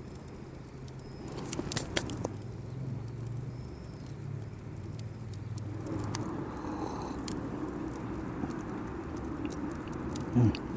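Wood campfire crackling with scattered sharp pops, over a low hum that fades out about six seconds in.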